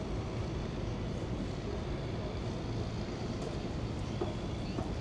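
Steady low rumble of city ambience, with a few faint clicks.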